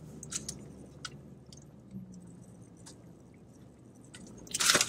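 Close-up eating and drinking mouth sounds: soft chewing and sipping through a straw, with scattered small clicks over a faint low hum. A louder burst of noise comes near the end.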